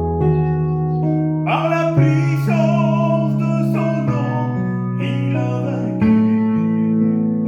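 A hymn sung by a solo voice over sustained instrumental chords that change every second or two. The voice comes in about one and a half seconds in, with vibrato.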